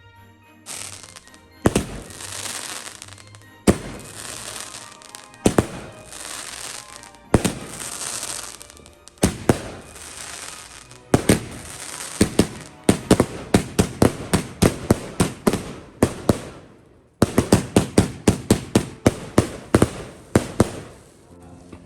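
Fireworks going off: sharp bangs, each followed by crackling. The bangs come about every two seconds at first, then in a fast run of many quick bangs through the second half.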